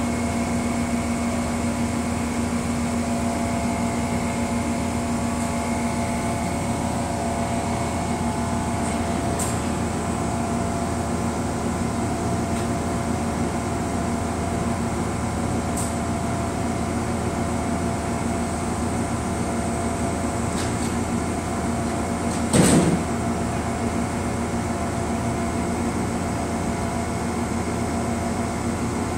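Steady, many-toned drone of a standing Amtrak passenger train idling at the platform, with one sharp clunk about three-quarters of the way through.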